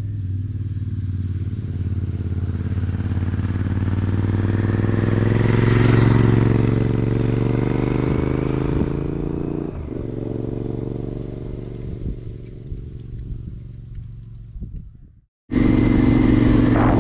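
Honda Varadero XL1000's V-twin engine running under way, its pitch rising slowly for about six seconds and then easing off, with a brief break near ten seconds. It fades and cuts out suddenly about fifteen seconds in, then comes straight back steady and louder.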